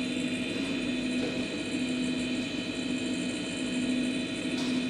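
News helicopter's turbine and rotor drone heard from inside the cabin: a steady hum with a constant high whine over a fast low beat.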